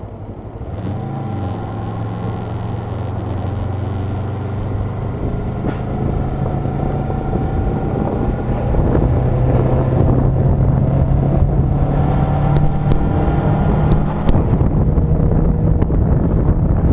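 Motorcycle engine running under way, picking up about a second in and then rising slowly in pitch and loudness as it gains speed.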